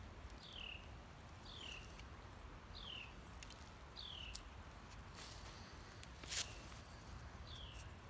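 A bird calling, repeating a single short whistled note that slides downward, about once a second, four times, then again near the end after a pause. A few light handling clicks, the loudest a sharp tap a little over six seconds in.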